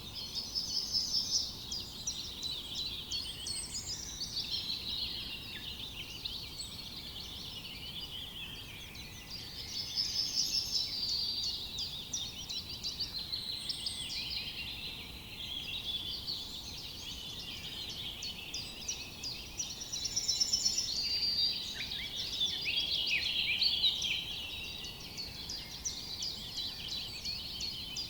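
A dense chorus of many songbirds singing at once, overlapping high chirps, trills and quick whistles, over a faint steady background hiss of forest ambience.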